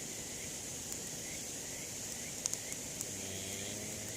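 Campfire crackling with a few sharp pops, over a steady high hiss of the outdoor background. A faint low hum comes in briefly about three seconds in.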